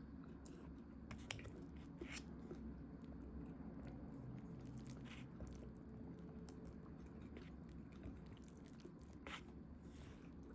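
Faint close-up eating sounds of someone eating instant kakiage udon: chewing and biting, with scattered soft clicks and wet squishes.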